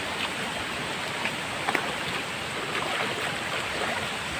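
Steady rush of flowing stream water, with a few faint short clicks here and there.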